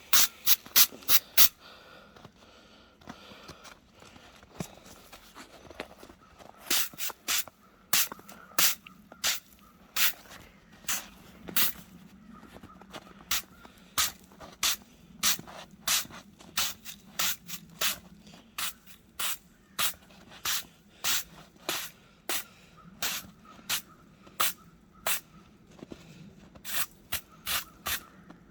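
Ice and slush crunching and scraping in short, repeated strokes, about one to two a second, with a few quicker runs near the end.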